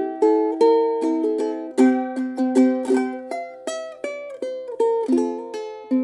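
Background music: a bright ukulele-style plucked string instrument strumming and picking chords in a steady rhythm.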